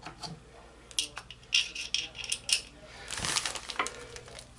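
Small metal hand tools clinking and clattering as they are handled, most likely screwdrivers being picked out to find one that fits a screw slot. A series of sharp clinks is followed a little after three seconds in by a brief rasping scrape.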